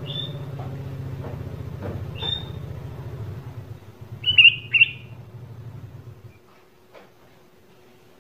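Short bird chirps, the loudest pair about four to five seconds in, over a low steady rumble that cuts off suddenly about six seconds in.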